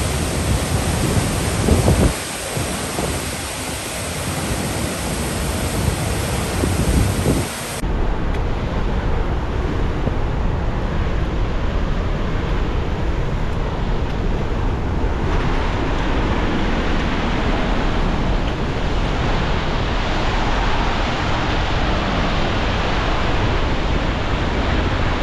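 Steady roar of a large waterfall close at hand, mixed with strong wind buffeting the microphone; the noise changes abruptly about eight seconds in.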